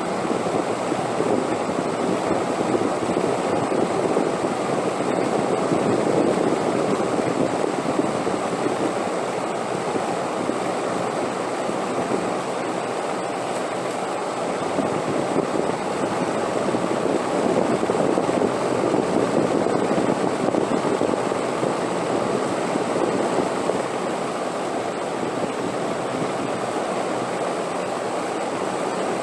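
Steady wind blowing, a dense rushing sound that swells gently twice and eases again.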